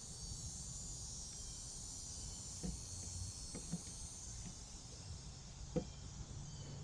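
Steady high-pitched chorus of insects, with a few faint knocks about three, four and six seconds in.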